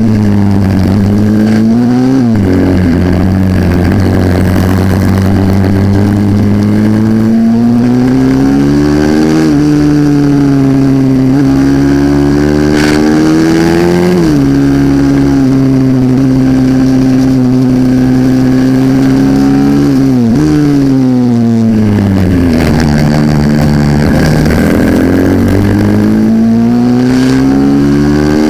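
A 140cc pit bike's engine at race pace, its revs climbing and falling lap-long as it is opened up out of corners and shut off into them. The revs drop sharply four times, over a steady rush of noise.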